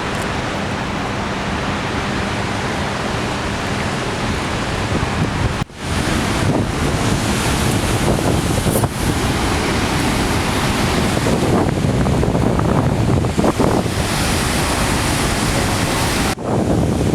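Steady roar of Niagara Falls' falling water, with wind buffeting the microphone. The sound drops out for an instant about six seconds in and again near the end.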